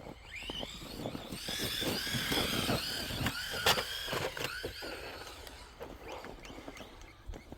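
Electric motor of an RC truck whining as the throttle is pulsed, the pitch swooping up and down several times in quick succession, loudest in the first half and then fading away, with a sharp click about three and a half seconds in.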